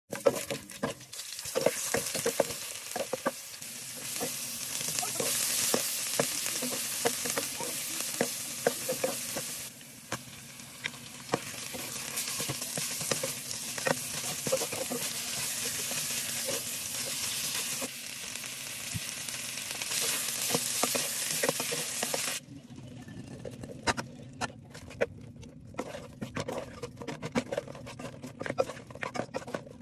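Beef, onions and tomato sizzling in hot oil in a nonstick pan while being stirred, the spatula scraping and clicking against the pan. About three quarters of the way through the sizzle drops off sharply, leaving mostly the stirring clicks over a quieter fry.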